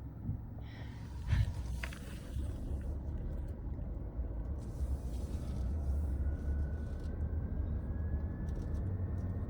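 Low, steady rumble of a car driving downhill, heard from inside the cabin. A knock comes about a second and a half in, and a faint whine rises slowly through the second half.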